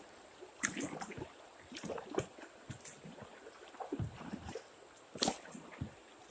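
Kayak paddle working river water: irregular short splashes and drips with water gurgling, the loudest splash about five seconds in.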